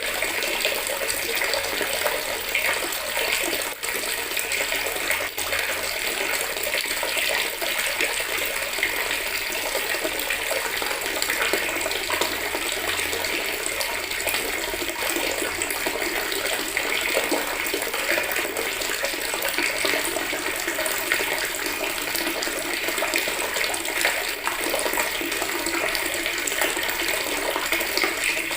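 Water from a tap running steadily into a plastic bucket, a continuous splashing hiss.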